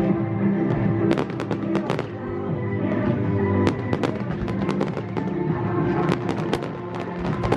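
A fireworks display going off in quick succession: many sharp bangs and crackles, thickest about a second in and again near the end, over music with sustained chords.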